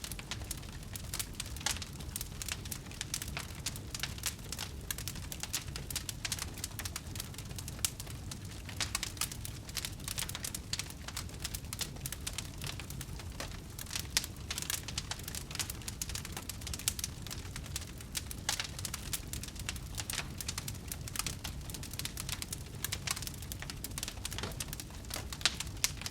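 Wood fire crackling: many irregular pops and snaps over a low, steady rumble of the flames.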